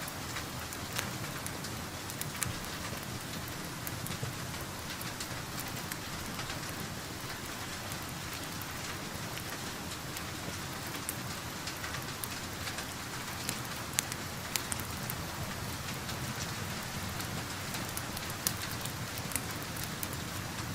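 Steady rain heard from indoors, an even hiss, with scattered sharp pops and crackles from a wood fire in a fireplace.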